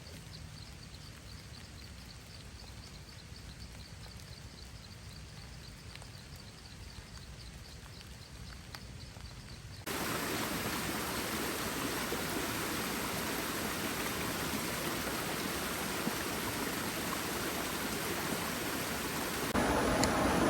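Steady hiss of heavy rain. A faint high ticking repeats a few times a second through the first half. The rain jumps abruptly louder about ten seconds in and again near the end.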